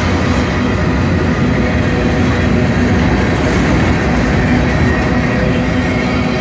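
Freight train of covered hopper cars rolling past at close range: a loud, steady rumble of steel wheels on the rails.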